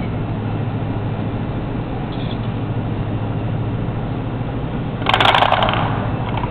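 Small robot's motors humming steadily; about five seconds in, a brief clatter of light objects, the loudest sound here.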